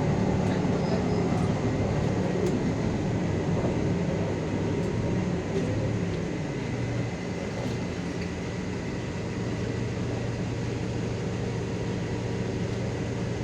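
City bus engine and drivetrain heard from inside the cabin. The pitch drops about five seconds in as the bus slows, then it runs steadily at a lower note.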